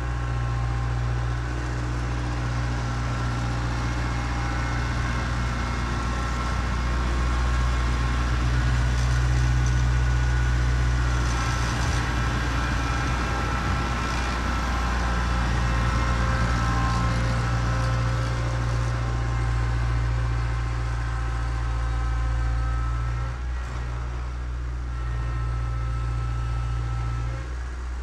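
Kubota B3030 compact tractor's diesel engine running steadily, its note swelling and easing a little as it works.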